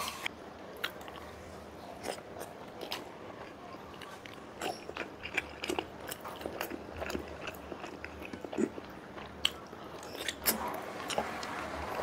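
Close-miked chewing and lip smacking of a mouthful of soft milkfish and rice, with many small, irregular wet clicks.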